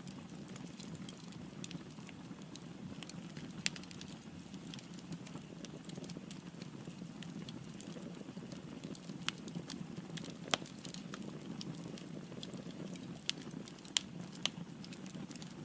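Wood fire burning in a fireplace: a steady low hiss of flames with frequent small crackles and a few louder pops from the burning logs.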